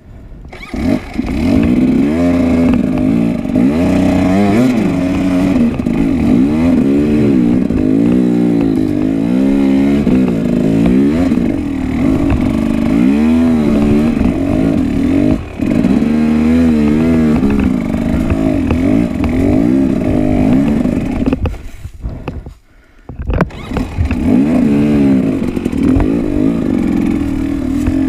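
Dirt bike engine running, its pitch rising and falling over and over as the throttle is worked. The sound drops out briefly about five seconds before the end, then picks up again.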